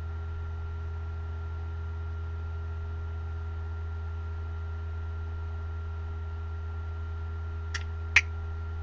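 Steady low electrical hum with a thin, faint high-pitched whine over it, the recording's background noise; two brief ticks come about a second before the end.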